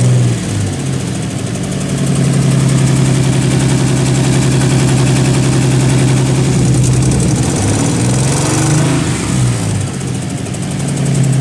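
Nissan 300ZX's 3.0-litre V6 idling with a steady note, the idle sagging and recovering briefly near the start and again around eight seconds in. The engine has a misfire, which the owner calls a little misfire.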